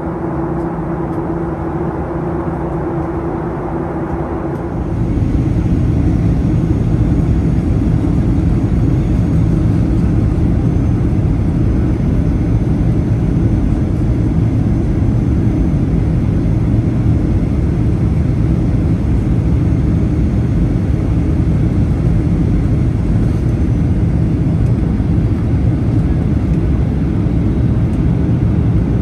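Boeing 737-800 cabin noise: the steady rumble of jet engines and airflow, which gets louder about five seconds in and then holds steady.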